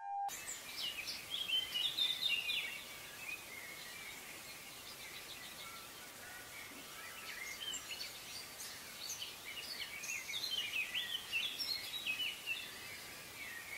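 Birds chirping over steady outdoor background noise, in two busy spells: one in the first three seconds and another from about eight to thirteen seconds in.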